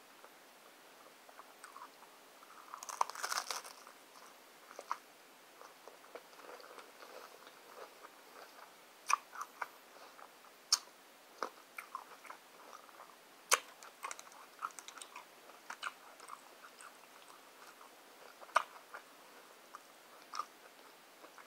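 A person biting into and chewing a Doritos Locos Taco's crisp hard shell: a dense crunch about three seconds in, then scattered sharp crunches and mouth clicks as she chews.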